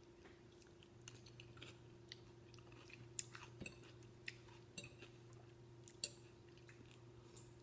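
Faint eating sounds: quiet chewing with a few short, soft clicks spaced about a second apart, over a steady low hum.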